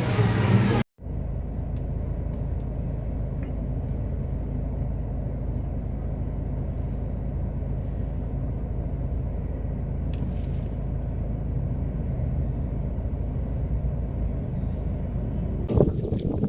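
After a sudden cut about a second in, a steady low rumble of a moving road vehicle: engine and road noise.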